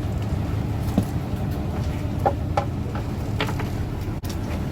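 Fishing boat's engine running with a steady low rumble, with a few short sharp knocks on board, about a second in and again between two and four seconds in.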